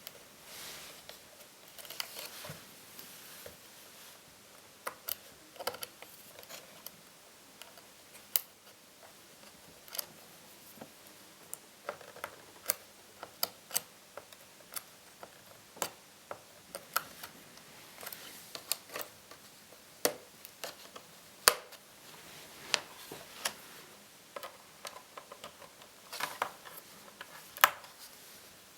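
Irregular light clicks and taps, one to several a second and of uneven strength: small plastic and metal laptop parts, screws and tools being handled during hands-on repair work.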